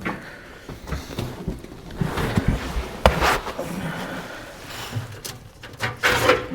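Irregular clicks, knocks and short scrapes of hand tools and metal parts being handled while engine parts are taken off, with a cluster of louder knocks about two to three seconds in.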